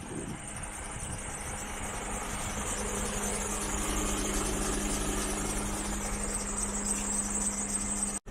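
Mercedes Actros 2545 truck's straight-six diesel engine idling steadily, growing louder over the first few seconds, then holding even before cutting off suddenly near the end.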